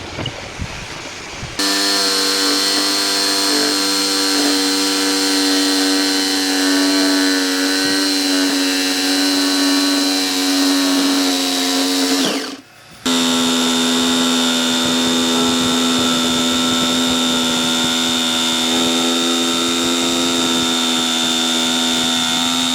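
An electric power tool's motor running at a steady high speed. Near the middle it is switched off, its pitch falls briefly, and it starts up again straight away and runs steadily on.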